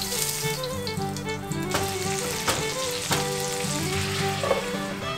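Pork belly and napa cabbage sizzling in oil in a frying pan, with a few sharp clicks. Background music plays underneath.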